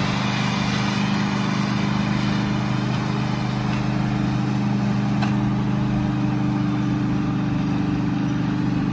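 Versatile tractor's diesel engine running steadily under load while pulling a moldboard plow, its pitch holding even throughout.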